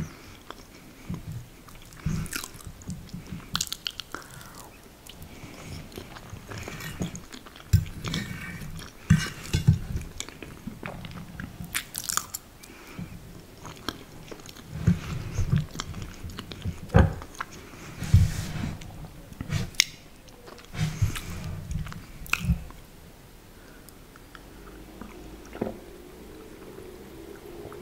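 Close-miked chewing of a mouthful of vegan lasagna, with irregular wet mouth clicks and smacks. Near the end comes a sip of water from a glass.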